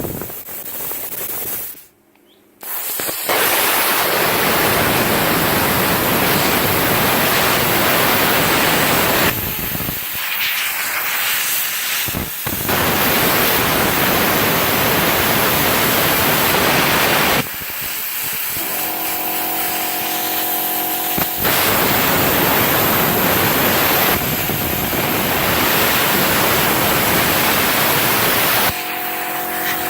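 CUT50 plasma cutter running its arc on metal: a loud, steady hissing rush that comes in runs of several seconds, broken by quieter spells in which a buzzing hum shows. The owner finds that the cutter arcs and melts the metal and consumables rather than cutting cleanly.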